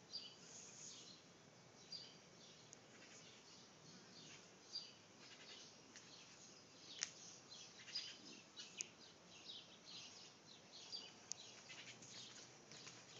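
Faint birds chirping: a steady stream of short, high, falling chirps, overlapping as if from several birds, with a couple of sharp ticks about two-thirds of the way in.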